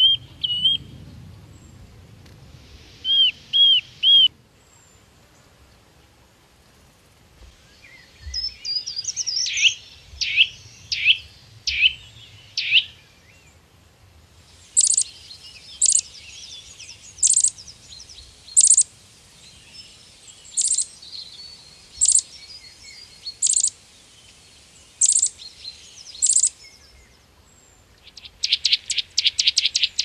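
Birds calling in a string of separate bursts that begin and end abruptly: three short rising whistles about three seconds in, a flurry of sharp chirps and falling calls from about 8 to 13 seconds, then about nine loud single chirps roughly a second and a half apart, and a fast trill near the end.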